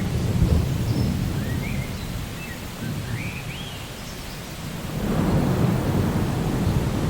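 Rainforest ambience: steady rain with low rolling thunder, one rumble dying away at the start and another building about five seconds in. Small birds chirp a few times in between.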